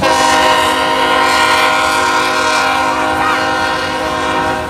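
BNSF freight locomotive's air horn sounding one long, steady blast at close range, starting abruptly and cutting off sharply near the end, with the train rumbling beneath it.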